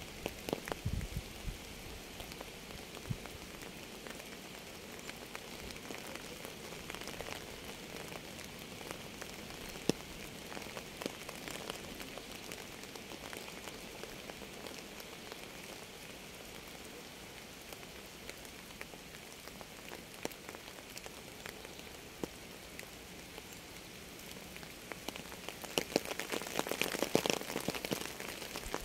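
Rain falling steadily, a soft hiss of rain with individual drops ticking close by. Near the end the drops come thicker and louder for a few seconds.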